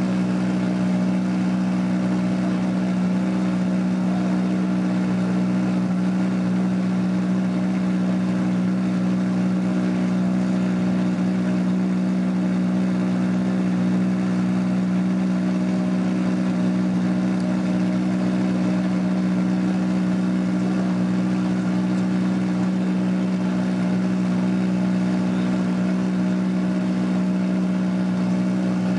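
Ford Fiesta R5 rally car's turbocharged four-cylinder engine idling at a steady, unchanging pitch.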